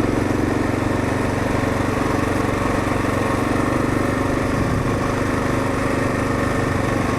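Kawasaki KLR650's single-cylinder engine running steadily.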